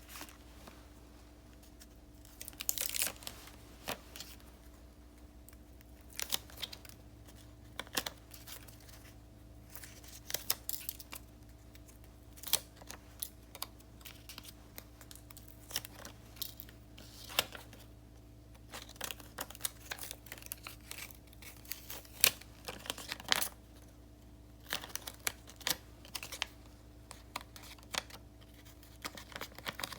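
Paper stickers and sheets being handled for diary decorating: irregular light taps and clicks with short bursts of rustling, peeling and crinkling paper, over a faint steady hum.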